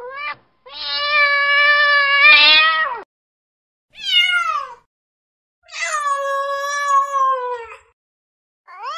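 Cat meowing in a series of drawn-out calls: two long, fairly level meows, a short falling one between them, and the start of another near the end.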